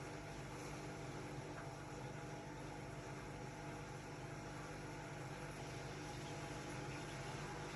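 Hotpoint-Ariston RSG 825 J washing machine running with a steady hum and hiss.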